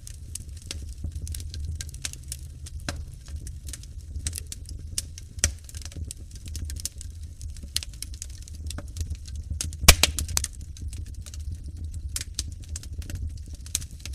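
Fire crackling in a fireplace: irregular pops and snaps over a steady low rumble of the flames, with a sharp cluster of loud pops about ten seconds in.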